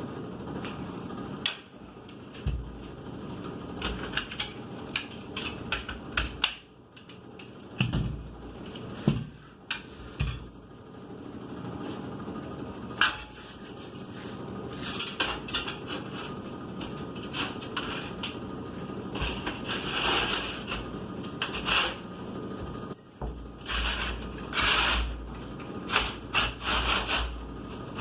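Irregular rubbing and scraping with scattered sharp clicks and a few dull low thuds, like things being handled or rubbed against a surface.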